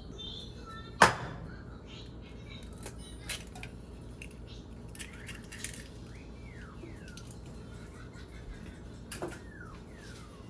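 Household handling sounds, dishes or containers being moved: one sharp knock about a second in, then scattered light clicks and clinks, with a few short falling squeaks near the middle and again near the end.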